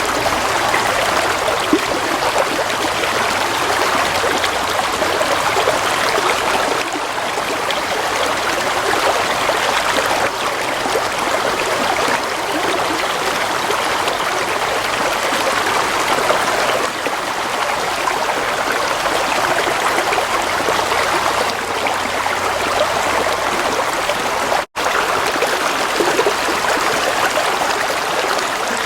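Water flowing steadily in a stream, a continuous trickling rush. About 25 seconds in, the sound cuts out completely for a split second.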